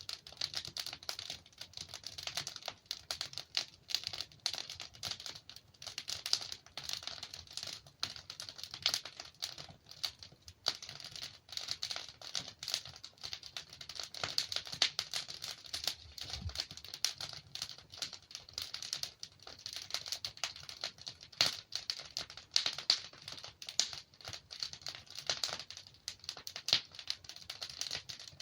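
Wood fire in a fireplace, logs crackling and popping in dense irregular snaps, with a few sharper pops over a soft hiss.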